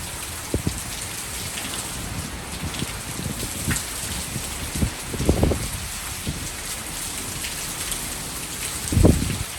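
Heavy rain pouring down in a thunderstorm, a steady dense hiss of drops. Short low rumbling surges break through it a few times, the loudest about five and nine seconds in.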